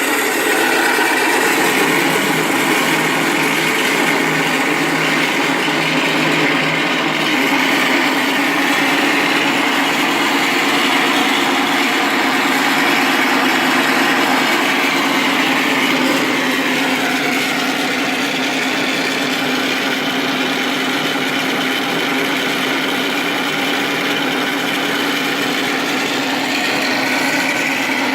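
Mr RC Sound onboard sound system in a 1600 mm Corsair model plane, playing a simulated radial aircraft engine through its speaker and running steadily. The pitch drops about 17 seconds in.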